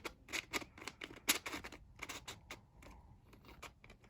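Plastic pieces of a 3D-printed 2x2–Skewb hybrid twisty puzzle clicking and scraping as its layers are turned. The clicks come in a quick, irregular run that thins out over the last second or so.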